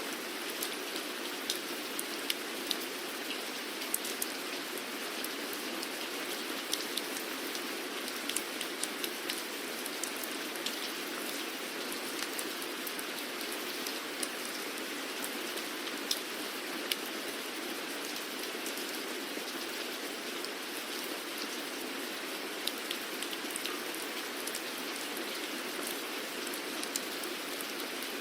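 Steady rainfall: an even hiss of rain with many individual drops ticking sharply against a surface.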